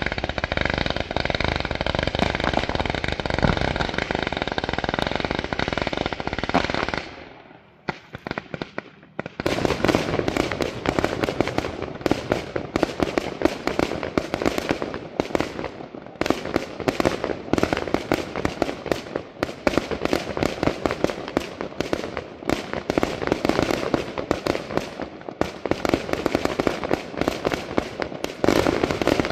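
Fireworks display. For about seven seconds there is a dense, continuous rush of fireworks with several steady whistling tones running through it. After a short lull and a few single bangs, a rapid, unbroken barrage of bangs and crackles follows, with one louder blast near the end.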